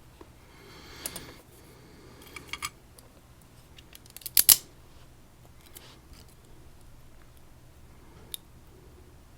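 Small metallic clicks and scrapes from a padlock being handled and taken apart with tools, with a loud double click about four and a half seconds in and faint ticks after.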